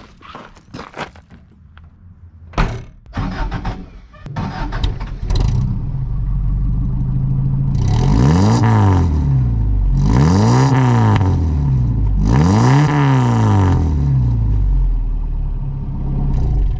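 A few seconds of scattered knocks and clicks, then a car engine running steadily. The engine is revved three times, each rev rising and falling in pitch over about a second and a half, and the sound cuts off abruptly at the end.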